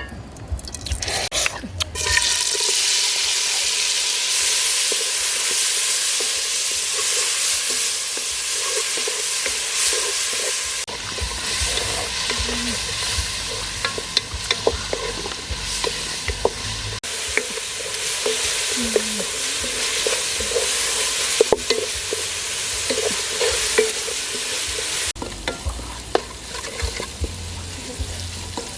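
Food sizzling loudly in a hot pan, starting about two seconds in and easing near the end, with the clicks and scrapes of a utensil stirring it.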